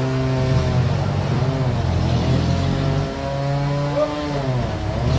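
Engine of a sawmill bandsaw running, its pitch sagging and climbing back several times.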